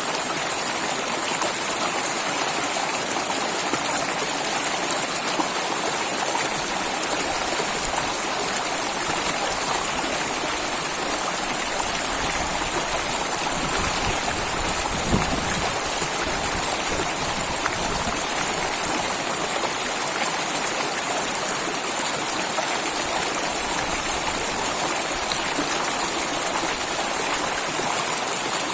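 Water flowing steadily over rocks in a stream or small waterfall, an even rushing noise, with a brief deeper swell about halfway through.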